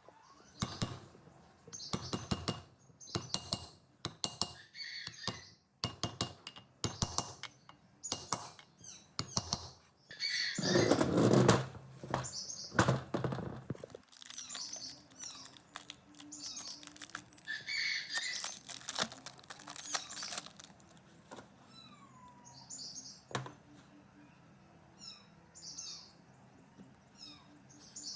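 Repeated clicks and knocks of hand work on metal parts, with a louder stretch of rubbing or scraping about eleven seconds in, then quieter scattered taps. Faint bird chirps come through in the second half.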